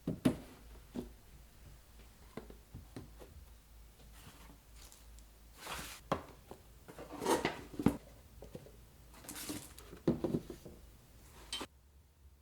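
Dishes and utensils being handled: scattered clinks and knocks with a few short swishing sounds, stopping abruptly near the end.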